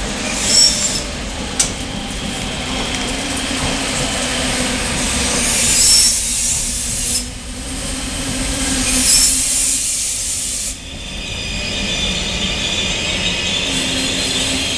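Railway train rolling past on the track, with a steady low rumble and high-pitched wheel squeal rising in short bursts a few times.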